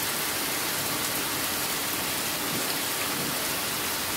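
Rain falling steadily on grass, pavement and puddles, an even hiss.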